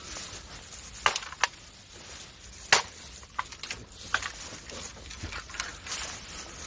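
A bamboo pole being chopped: about seven sharp, irregular knocks over five seconds, the loudest a little under three seconds in.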